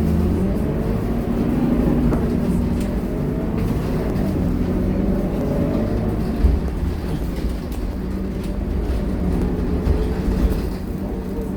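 Scania K230UB city bus's five-cylinder diesel engine pulling under load, its note rising over the first few seconds, over a steady low rumble from the running bus. A brief knock a little past halfway.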